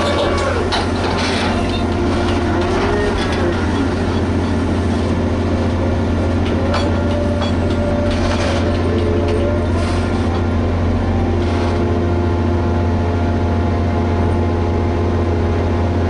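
Liebherr HS 8200 dragline running steadily with a deep engine hum, joined by squeaks that rise and fall in pitch and a few short clanks as it works.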